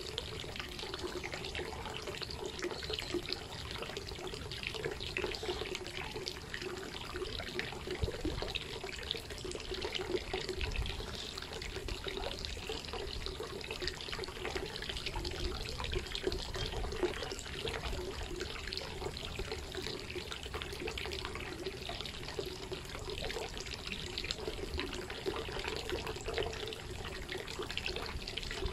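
Steady rain falling: a dense, even spread of small drop impacts with no change over the whole stretch.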